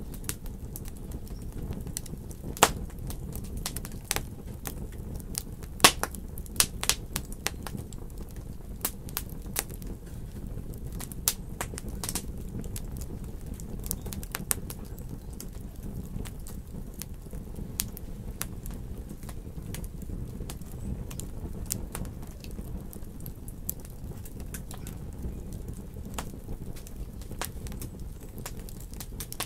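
Wood fire crackling in a fireplace: a steady low rumble of burning with irregular sharp pops and snaps, a few of them louder in the first several seconds.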